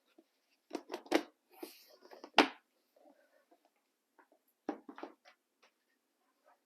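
Paper scraps being rustled and shuffled by hand, in a few short spells of crinkling and light taps, the sharpest about two and a half seconds in.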